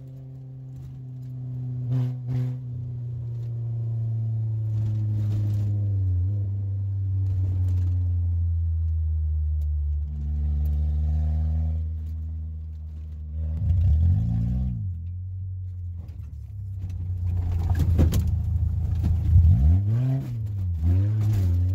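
Suzuki Sidekick's four-cylinder engine running and revving up and down under throttle, with quick blips near the end. Sharp knocks and rattles come through, the loudest about two seconds in and near the end.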